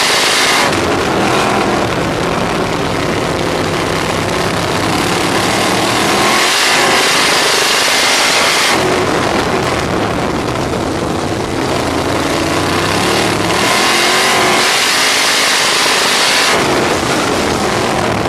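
On-board sound of a RaceSaver 305 sprint car's V8 engine at racing speed. The engine pitch drops off sharply and then climbs again, about twice, as the car lifts for the turns and accelerates down the straightaways of the dirt oval.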